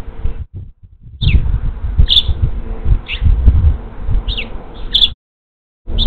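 A small bird chirping, five short falling chirps, over a low rumble and a faint steady hum. The sound cuts out abruptly near the end.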